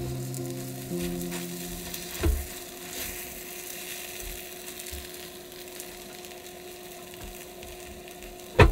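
Takoyaki batter sizzling in the wells of an electric hot plate as the balls are turned with a bamboo skewer. Two sharp knocks, a small one about two seconds in and a louder one near the end.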